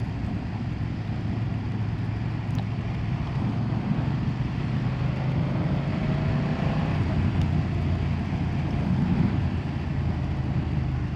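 BMW F900R's 895cc parallel-twin engine running at a steady, low pitch while the bike rides along, over a steady hiss of tyres on a wet road.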